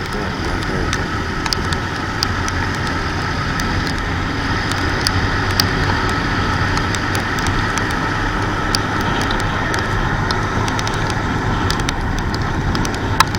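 Steady rush of wind and wet road noise from a Hero Splendor motorcycle riding through heavy rain, with scattered sharp ticks of raindrops hitting close to the microphone.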